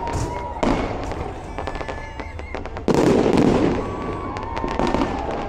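Aerial fireworks display going off: two loud shell bursts, about a second and three seconds in, with rapid crackling between them.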